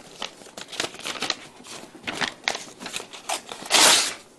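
Light rustling and clicking handling noises, with a short, loud breathy hiss near the end.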